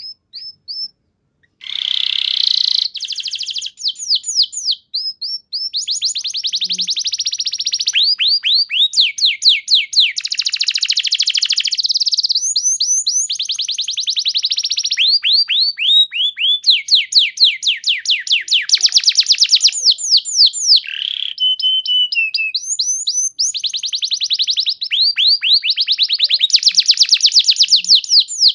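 Domestic canary singing a long, continuous song: fast trills of quick falling notes repeated many times a second, changing from one trill to the next, after a few short chirps at the start.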